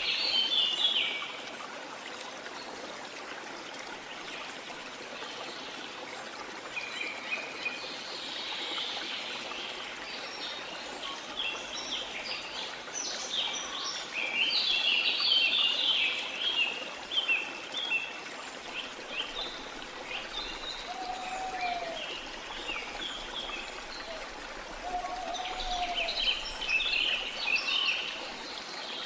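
Steady rush of a waterfall or stream in a tropical rainforest, with bouts of high, rapid bird chirping and, in the second half, a lower short rising-and-falling call repeated three times, a few seconds apart.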